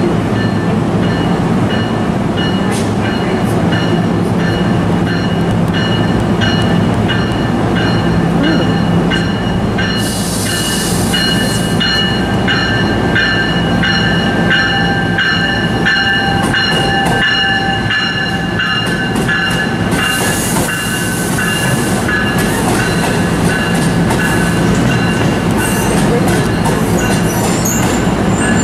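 A train running past: a steady rumble with wheels clicking over rail joints and a thin, steady high whine. Two short bursts of hiss come about ten and twenty seconds in.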